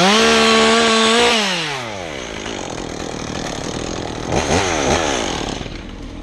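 Chainsaw revved up to full throttle, held about a second and a half, then let fall back to idle, with a second short blip of the throttle about four and a half seconds in.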